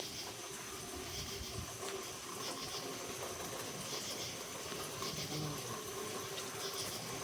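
Steady rain falling, an even hiss, with a faint high chirp repeating roughly once a second above it.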